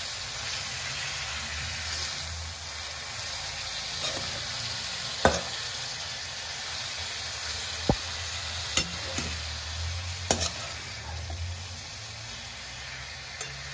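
Chopped spinach sizzling in hot oil in a kadhai as it is stirred, freshly added to a tempering of cumin, green chilli and garlic. A few sharp knocks against the pan stand out over the steady sizzle.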